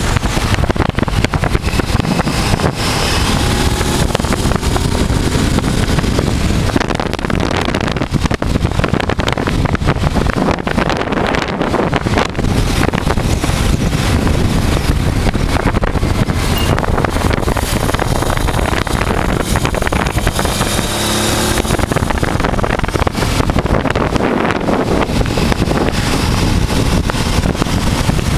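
1988 Honda Transalp's V-twin engine running under way, with heavy wind noise on the microphone. The engine note shifts a little a few seconds in and again about two-thirds through.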